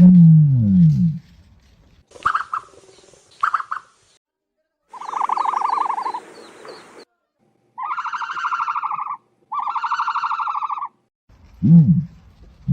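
Ostrich calls in a string of separate calls: a low call that falls in pitch at the start, short higher calls, a longer rasping call, then two buzzy, rapidly pulsed calls of about a second and a half each. The low falling call comes again near the end.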